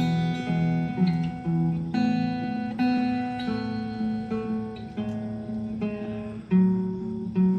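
Acoustic guitar played alone, chords strummed and picked at an easy steady pace, each one ringing on into the next.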